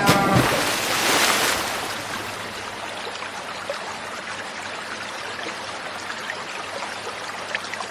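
Running water with a steady, stream-like rush, louder for the first two seconds and then settling to an even flow.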